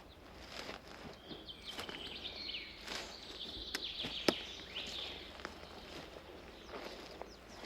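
Footsteps on a forest path, irregular soft crunches with a sharper snap about four seconds in. Songbirds chirp and trill high overhead for the first few seconds.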